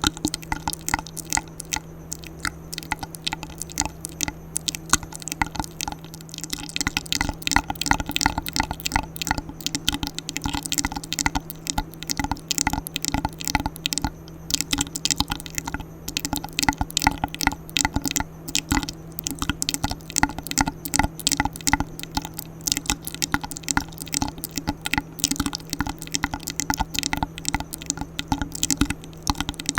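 Close-miked ASMR mouth sounds: a dense, continuous stream of small wet clicks and smacks, over a steady low hum.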